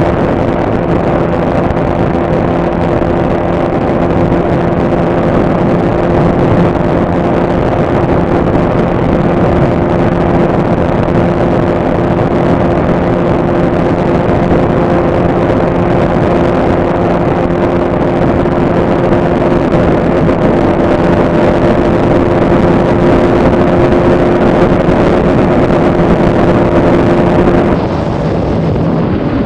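KTM Duke 200's single-cylinder engine running flat out at high speed, its note held steady, with wind buffeting the microphone. About 28 seconds in it cuts abruptly to a different bike's engine and wind, the Bajaj Pulsar RS200 also at speed.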